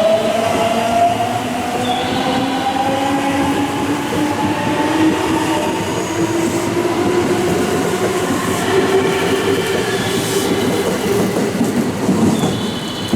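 Electric commuter train pulling away, its traction motor whine rising steadily in pitch as it gathers speed, over the rumble of the train on the rails.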